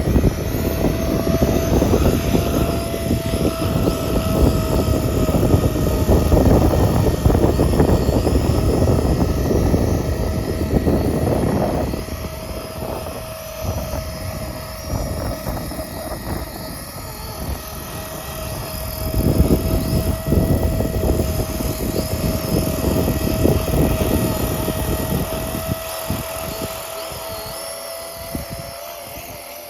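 Electric Walkera DQ59 scale RC helicopter in flight, its brushless motors and rotor giving a steady whine, with gusty wind rumbling on the microphone. Loud for the first dozen seconds, then quieter, swelling again about two-thirds through and fading near the end.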